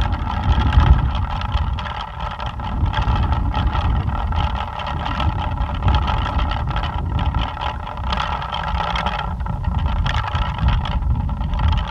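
Plastic pinwheel whirring steadily as it spins in strong wind, with a fluttering edge. Gusts of wind buffet the microphone in a low rumble that swells and eases.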